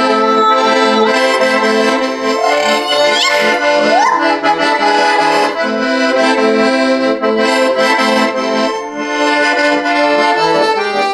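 Accordion playing an instrumental interlude of a Russian folk song: sustained chords over a rhythmic bass.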